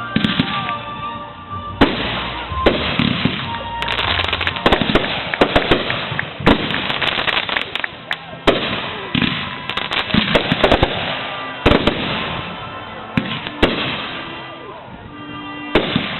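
Fireworks display: aerial shells bursting in a rapid series of loud bangs, with crackling between them.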